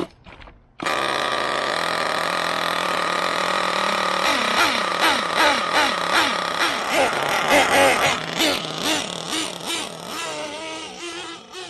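Small two-stroke nitro glow engine of an RC monster truck, cutting in suddenly about a second in and running at a high, steady buzz, then revved in quick throttle blips, about two a second, before easing off near the end.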